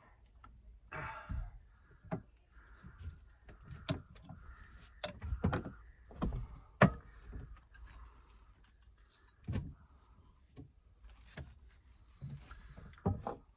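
Scattered knocks, clicks and clunks of tools and materials being handled, irregular and of varying loudness, the sharpest about seven seconds in.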